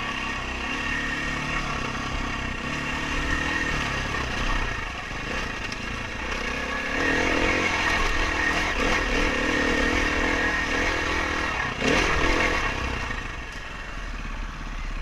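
Dirt bike engine running on the trail, its pitch rising and falling with the throttle, with a brief knock about twelve seconds in.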